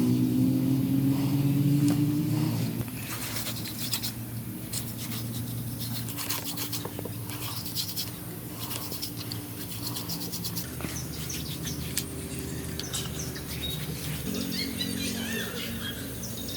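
Steady low droning tones that shift in pitch every few seconds, under scattered clicks and scrapes; short chirps come in near the end.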